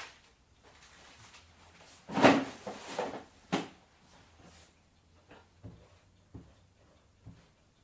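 Kitchen handling sounds during salad making: a loud noisy clatter about two seconds in, ending in a sharp knock, then a few light taps.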